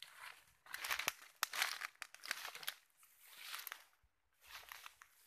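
Irregular bursts of rustling and crackling with a few sharp clicks.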